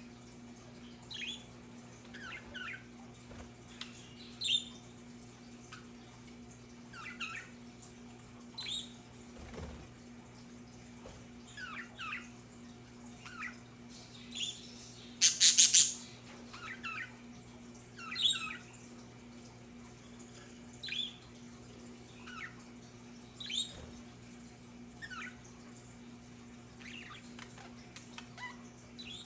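Budgerigars chirping in short, scattered calls, with one loud, harsh burst of rapid squawks about halfway through, over a faint steady hum.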